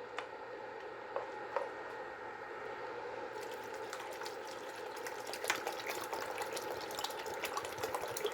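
A few light clicks, then water poured from a bottle into a pot of broth and noodles, splashing and crackling from about three seconds in and stopping near the end.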